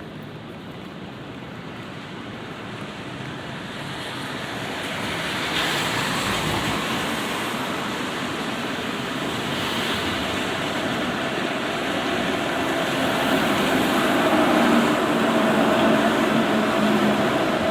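A vehicle approaching on a wet street: the hiss of tyres on wet road grows steadily louder, and a steady motor hum joins in past the midpoint.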